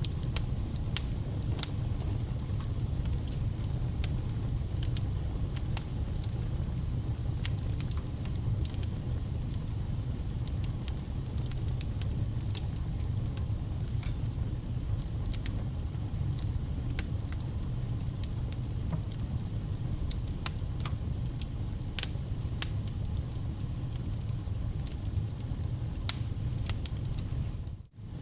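Wood fire burning, with irregular sharp crackles and pops over a steady low rumble of the flames. The sound cuts out for a split second near the end.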